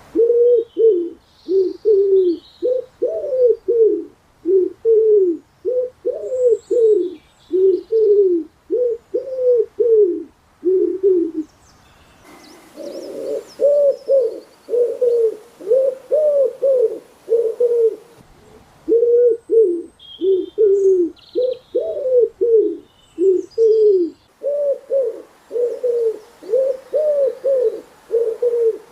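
Doves cooing in a steady run of low, arched notes, about two a second, with a couple of brief pauses. Faint high chirps of small birds sound above them.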